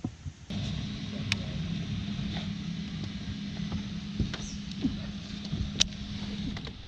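Electric trolling motor on a jon boat running with a steady low hum; it starts about half a second in and stops near the end. A few short clicks sound over it.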